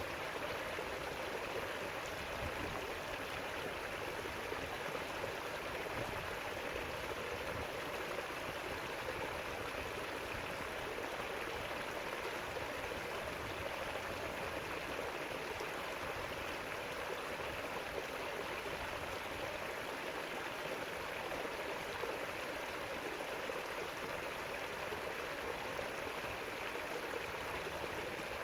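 River water rushing and gurgling over rocks, a steady, even flow.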